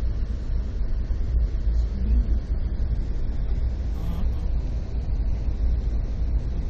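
Amtrak passenger train running on the rails, a steady low rumble heard from inside the car.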